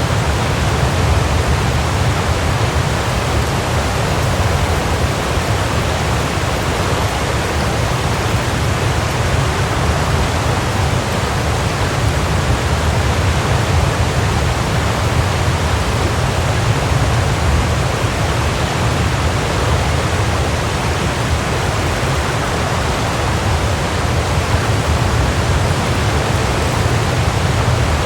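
Waterfall: a steady, unbroken rush of falling water with a deep low rumble beneath it.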